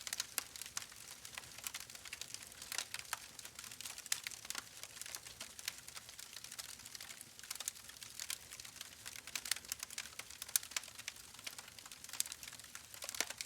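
Irregular soft crackling: scattered sharp clicks, several a second, over a faint hiss.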